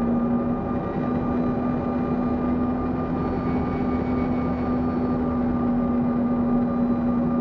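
Airliner cabin noise in flight on approach: a steady rumble of engines and airflow with a constant droning hum.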